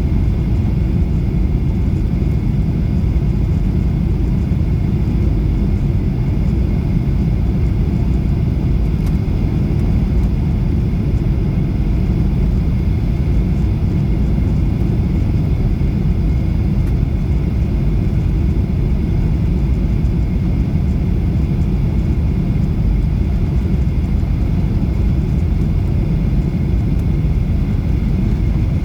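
Airliner noise: a steady low rumble with a faint high whine above it, unchanging throughout.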